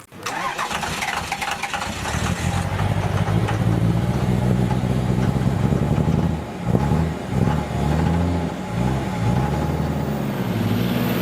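A vehicle engine starting, then running and being revved: its pitch rises and falls several times over the last few seconds.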